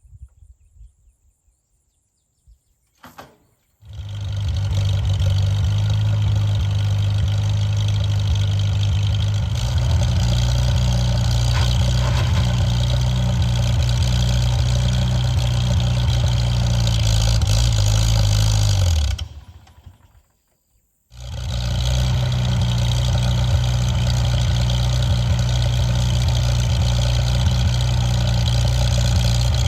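Tractor engine starting about four seconds in and running at a steady idle, then sagging in pitch and dying roughly two-thirds of the way through. After a couple of seconds of silence it starts again and idles steadily.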